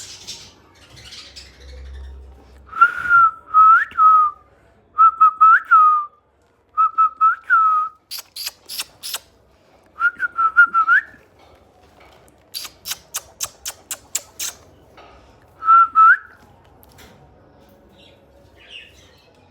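Clear whistled notes at one pitch with short upward flicks, in repeated phrases, broken by two quick runs of sharp high clicks or chirps.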